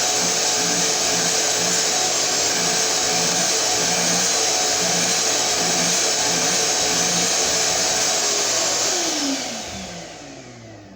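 Shop-Vac 7.5-gallon wet/dry vacuum running at full suction with a loud, steady whine. About nine seconds in it is switched off, and its motor winds down with a falling pitch.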